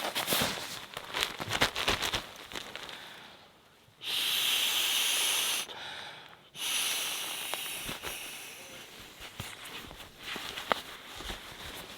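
Rustling and clicking as an inflatable camping pillow is handled, then two long rushes of air hissing as it is inflated, the second fading out.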